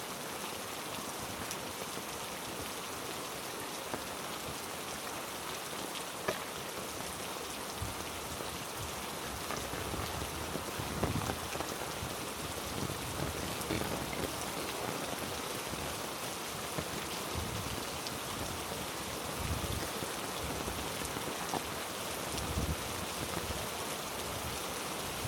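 Heavy rain falling steadily on rainforest foliage and the ground, a dense even hiss. From about eight seconds in, soft low thumps come at irregular intervals beneath it.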